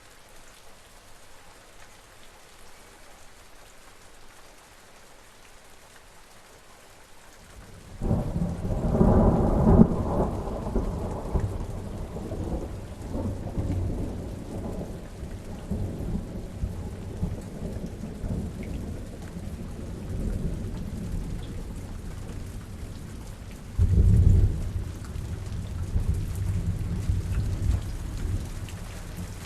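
Steady rain falling, with a sudden clap of thunder about eight seconds in that rumbles and fades over several seconds, and a second thunder burst about two-thirds of the way through.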